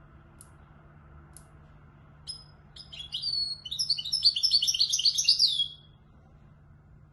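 European goldfinch, a young bird, singing a burst of rapid, twittering song in the Moroccan Marrakchi style, lasting about three and a half seconds and starting a little over two seconds in, after a couple of short faint calls. A faint steady low hum sits underneath.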